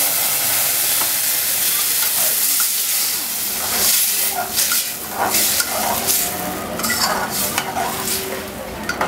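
Puréed mustard-greens and spinach saag sizzling in a kadhai of hot mustard oil and fried masala. From about four seconds in, a metal spoon stirs and scrapes through it in quick, repeated strokes against the pan.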